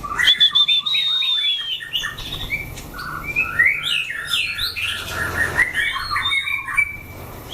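White-rumped shama singing: a continuous run of varied whistled phrases that glide up and down, with a long, slightly falling whistle near the start.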